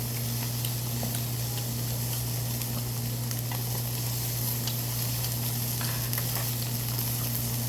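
Meat and rice cakes sizzling steadily on a grill, with faint scattered ticks and a steady low hum underneath.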